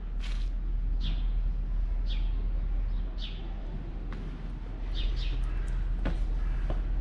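A small bird chirping over and over: short notes that fall in pitch, about one a second, over a steady low rumble. A few sharp ticks near the end, likely footsteps on stone.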